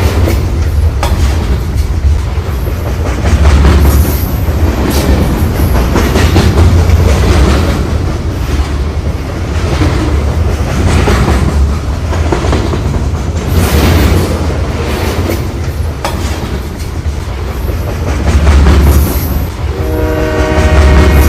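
Train running with a heavy low rumble and recurring wheel clatter over the rails. A horn chord starts near the end.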